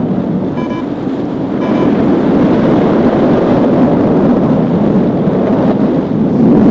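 Strong wind rushing over the microphone in flight, a loud steady roar. In the first two seconds there are two short beeps about a second apart, typical of a paragliding variometer signalling a climb.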